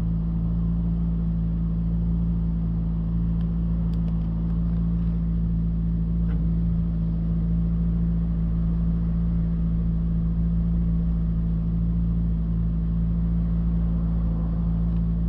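Mitsubishi Delica D:2's K12C 1.2-litre inline-four petrol engine idling steadily, with an even low hum and no revving.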